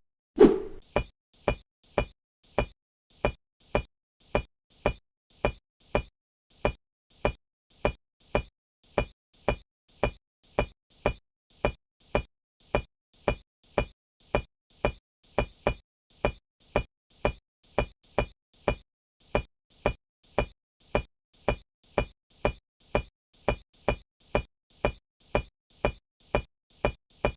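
A steady, perfectly even ticking of sharp identical clicks, a little over two a second, with silence between them.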